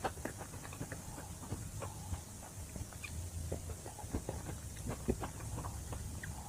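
Chewing chicken wings up close: scattered small mouth clicks and wet smacks over a low steady hum.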